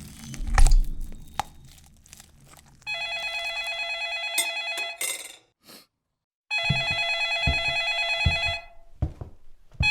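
Telephone ringing in a sound-effect rhythm: two long warbling rings of about two seconds each, with a third beginning at the end. A loud low thump comes about half a second in, and a few softer low thuds fall during and after the second ring.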